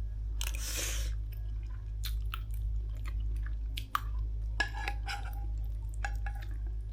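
A person chewing food, with small wet mouth clicks and a brief hiss near the start, over a steady low hum.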